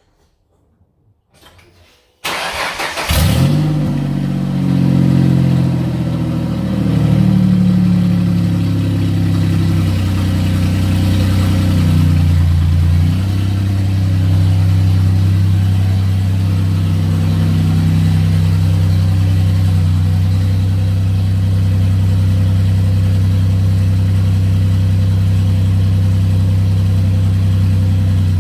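Twin-turbo V6 engine of a New Edge Mustang starting about two seconds in after a brief crank, then idling, its revs rising and settling a few times before holding steady.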